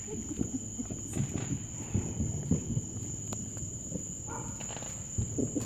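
Crickets chirping in a steady, continuous high trill, with faint low rustling and shuffling close by.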